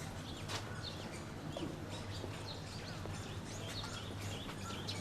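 Small birds chirping repeatedly in short high calls over a steady low hum of city background noise.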